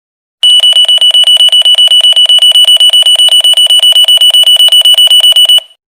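Alarm clock sound effect ringing: a loud, high, rapidly pulsing ring of about nine pulses a second that starts sharply and cuts off just before the end.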